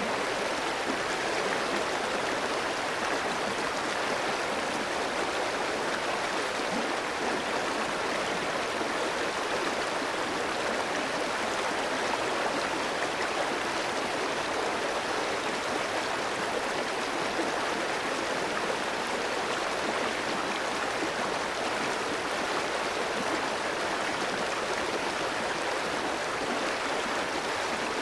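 A clear stream flowing over rocks, a steady rush of water with no change or break.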